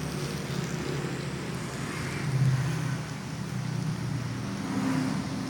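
Battery-powered toy train running, a steady low motor hum that swells briefly about two and a half seconds in and again near the end.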